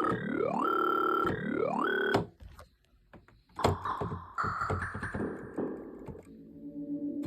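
Yamaha DX7 FM synthesizer playing patches from the VRC-105 cartridge: a repeating effect sound whose pitch sweeps sharply upward about every second and a half. After a brief pause, a different patch comes in with a sharp attack and then sustained notes.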